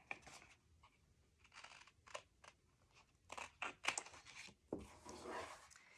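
Cardstock being handled and folded while a pocket's corners are mitered: a faint series of short paper rustles and crinkles, with a longer rustle near the end.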